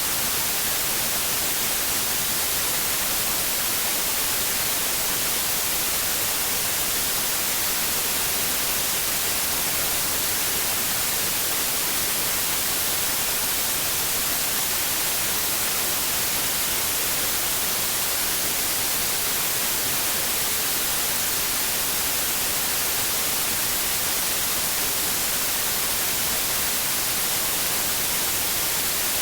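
Steady, unchanging white noise: an even hiss with most of its energy in the high frequencies.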